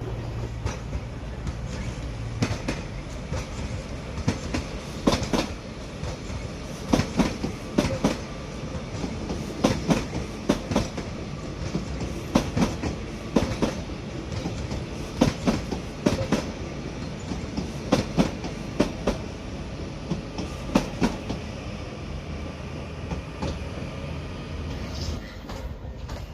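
A train running slowly past, its wheels clicking over track joints in close pairs, axle after axle, bogie after bogie, over a steady rumble. The clicking fades out a few seconds before the end.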